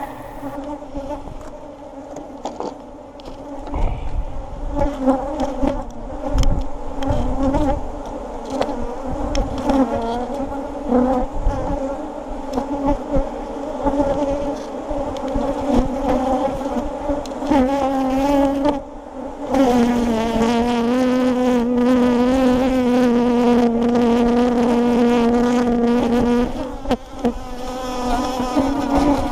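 Honeybees buzzing around an open hive, a wavering hum with overtones from many wingbeats; the colony is agitated. From about twenty seconds in, a single bee buzzes close by on a louder, steadier pitch for several seconds. Occasional low thumps sound in the first half.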